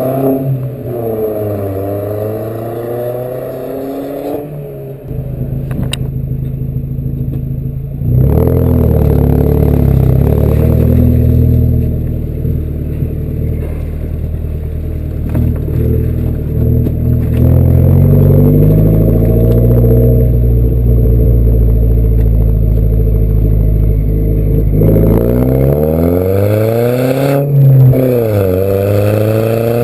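VW Passat B5 1.8T turbocharged four-cylinder engine through a custom exhaust with no resonator. It is revved in quick blips at the start and again near the end, with a louder, steadier stretch of running in between whose pitch rises and falls slowly.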